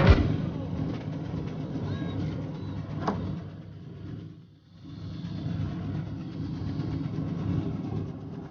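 Low, steady rumble of a moving vehicle, with a single click about three seconds in; it drops away briefly about four and a half seconds in, then resumes.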